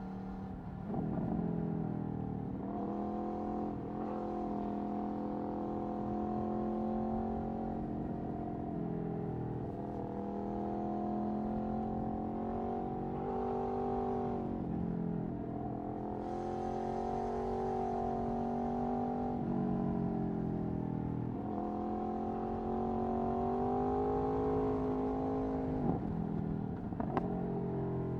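Aprilia Tuono V4 1100's V4 engine through an Akrapovic Racing exhaust on the move, its pitch climbing and then dropping several times as the rider accelerates and shifts. Two sharp cracks come near the end.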